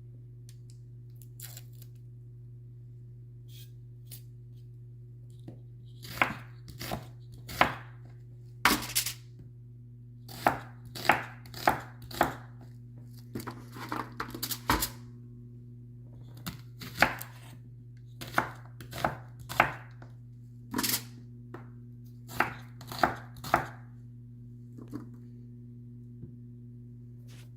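Kitchen knife cutting vegetables on a chopping board: irregular single knocks of the blade, few at first, then a busier run of cuts from about six seconds in, over a steady low hum.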